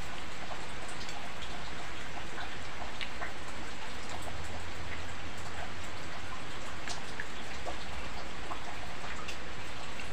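Steady drizzle mixed with light rain: an even hiss with scattered drops ticking.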